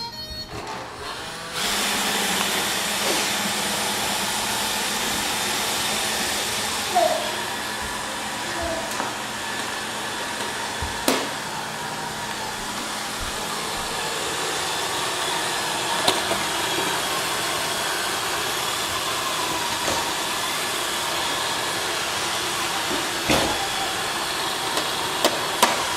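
Roomba robot vacuum switching on about a second and a half in and running steadily, with a few short knocks.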